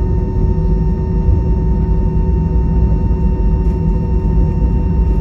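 Airbus A320 passenger cabin with the jet engines running: a steady, loud low rumble with several steady whining tones over it.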